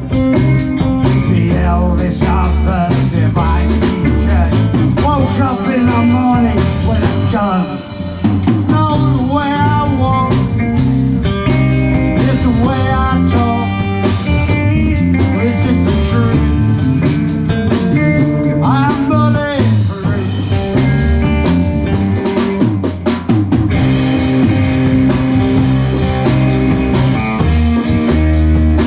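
Live rock band playing an instrumental passage: a lead electric guitar line with curving, bending notes over bass guitar and drum kit.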